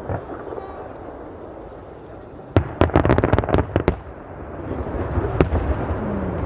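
Fireworks going off at a distance: a rapid string of sharp cracks a bit over two seconds in, a single crack later, and a rolling rumble of further bursts building toward the end.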